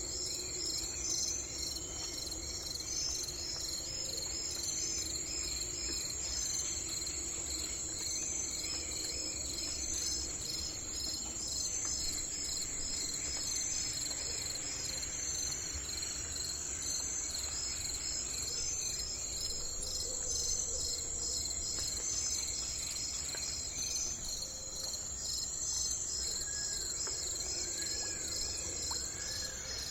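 Crickets and other insects chirping steadily in evenly repeating pulses over a continuous high buzz. A bird gives a few short arched calls near the end.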